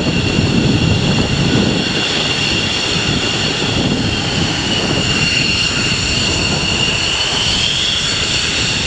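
Jet aircraft engines running at taxi power: a steady high whine over a low rumble, the whine rising a little near the end.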